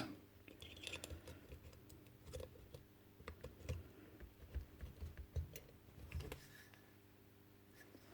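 Faint, irregular light clicks and taps of small parts being handled while fitting the reed valve strip and its screws on a Paslode IM350+ nail gun.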